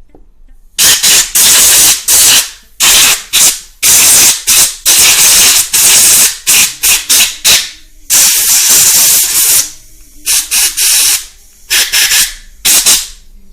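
Compressed air blown in a series of short, loud hissing blasts, about a dozen, some brief and some over a second long, blowing petrol-washed moped parts dry before reassembly.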